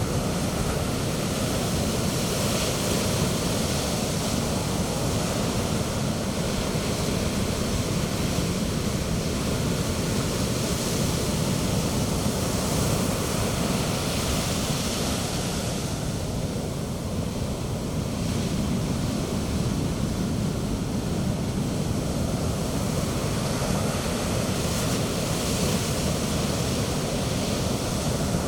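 Sea surf breaking steadily on a beach, a continuous low rumble with washes of foam that swell and ease every few seconds.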